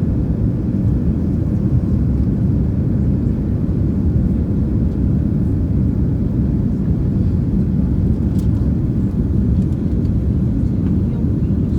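Inside the cabin of a Boeing 787-9 Dreamliner during takeoff: a steady, loud, low rumble of engine and airflow noise.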